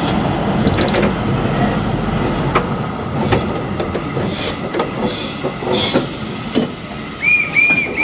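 Narrow-gauge train rolling slowly: a steady rumble of wheels on the rails with scattered clanks and knocks from the wagons. Near the end come three short, high squeals in quick succession.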